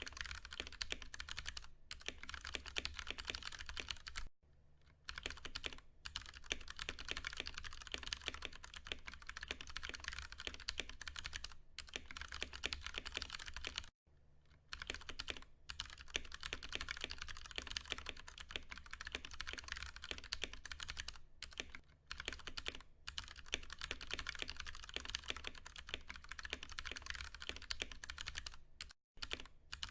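Fast, continuous typing on a Ducky One 2 Mini mechanical keyboard with Cherry MX Brown tactile switches, a dense run of key clicks. It breaks off briefly about four seconds in, again about halfway through, and just before the end.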